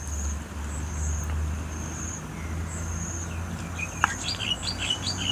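Birds chirping: a short high trill repeats every second or so, and about four seconds in a bird starts a quick run of short downward chirps.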